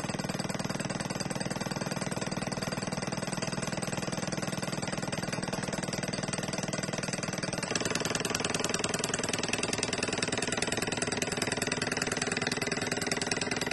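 Small Manson-type atmospheric hot-air model engine running steadily with a rapid mechanical clatter. Its sound changes abruptly a little over halfway through and is slightly louder after that.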